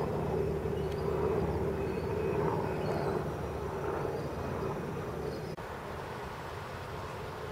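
A steady low engine-like rumble with a droning hum that slowly fades away, dropping a little more over halfway through.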